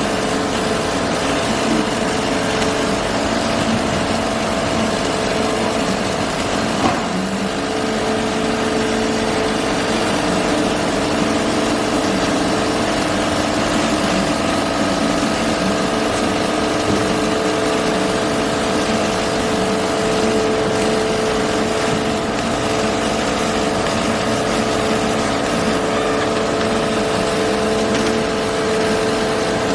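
Steady machine hum holding several even tones, as from a CNC machine running while working MDF, with one short knock about seven seconds in.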